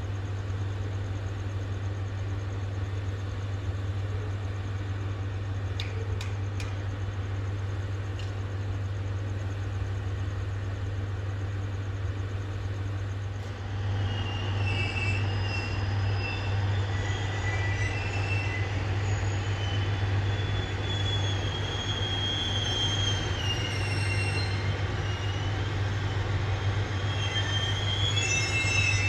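Diesel railcar with its engine running in a steady low hum. About halfway through, its wheels start squealing against the rails in wavering high tones as it moves slowly through curves or points.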